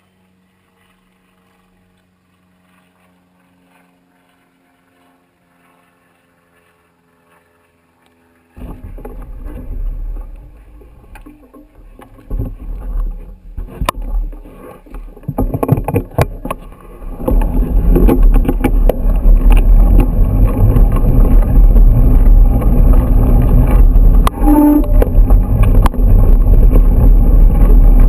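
Wind buffeting the microphone of a moving bike and knocking rattles over the ground. It is near silent at first, starts with rattles and gusts about eight seconds in, and from a little past halfway settles into a steady loud rush and rumble.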